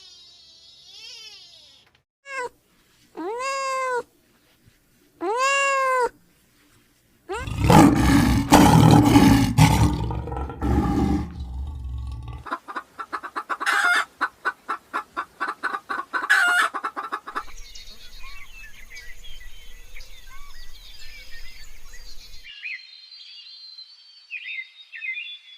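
A run of different animal calls one after another: a short pitched call, then two arching, rising-and-falling calls, then a long loud roar, then rapid pulsed calls at about four a second, and bird chirps near the end.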